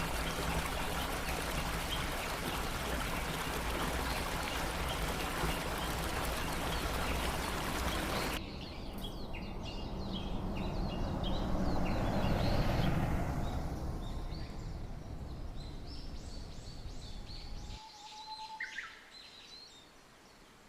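Steady rush of falling water from a waterfall, cutting off abruptly about eight seconds in; then softer rushing water with birds chirping, fading to near silence near the end.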